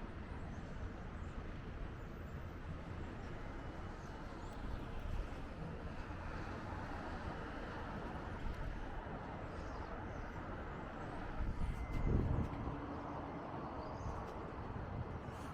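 Steady rumble of distant city traffic, with a louder low swell about twelve seconds in.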